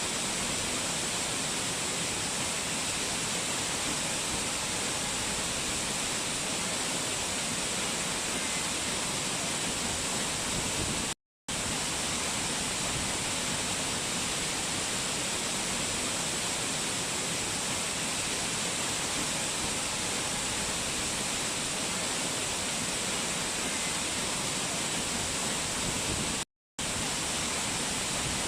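Rushing mountain water, a steady even hiss of a waterfall or fast stream. It cuts to silence for a split second twice, about eleven seconds in and near the end.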